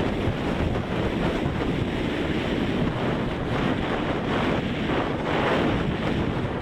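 Strong wind buffeting the microphone: a loud, steady rush of noise that swells a little in gusts.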